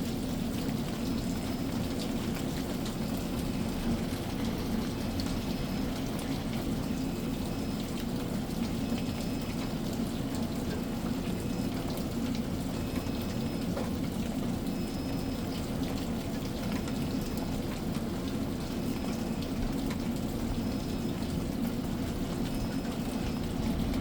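Steady summer rain shower, an even patter of rain on surfaces, with faint short high chirps repeating every second or two.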